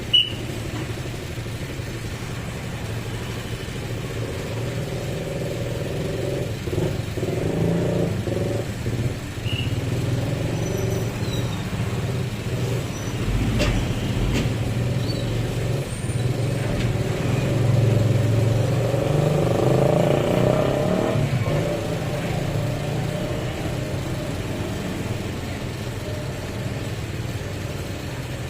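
A 12-wheel truck's diesel engine running as it works slowly along, getting louder about two-thirds of the way through and then easing off. A short sharp click comes right at the start.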